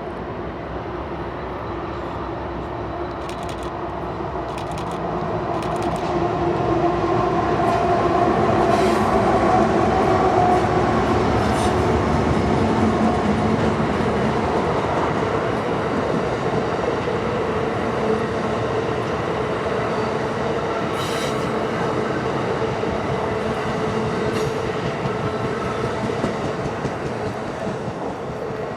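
Freight diesel locomotives hauling a passenger train past, with their engines running under load. The sound swells to its loudest around eight to twelve seconds in, then carries on with the train rolling by and occasional sharp wheel clicks.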